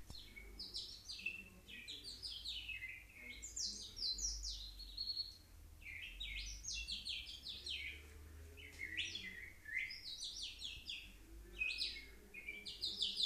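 A girl whistling in imitation of a nightingale: repeated bursts of quick, high chirps, sweeps and trills, each phrase a second or two long with short pauses between, about six phrases in all.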